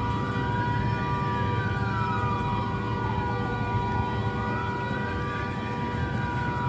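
Emergency vehicle siren wailing slowly up and down, about one rise and fall every four seconds. Under it the burning truck's horn blares as one steady, unbroken tone, over a low rumble.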